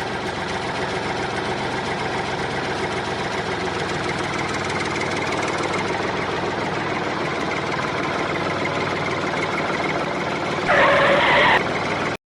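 A small motor running steadily, with a brief louder burst of noise near the end before the sound cuts off suddenly.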